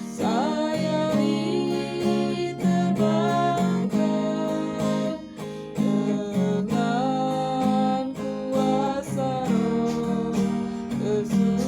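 Acoustic guitar music from a Christian devotional song: strummed chords with a melody line gliding between notes above them.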